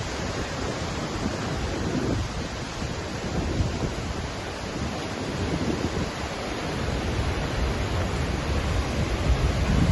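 Waterfall crashing in a steady roar of falling water, with gusts of wind buffeting the microphone.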